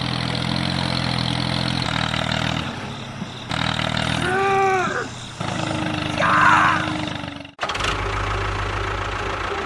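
Engine-like running sound, steady and low, with a short gliding pitched sound about four and a half seconds in. It cuts off abruptly about three-quarters of the way through, then starts again.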